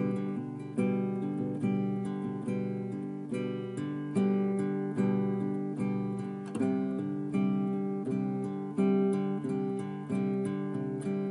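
Acoustic guitar playing an original piece, with chords struck about once a second, each ringing out and fading before the next.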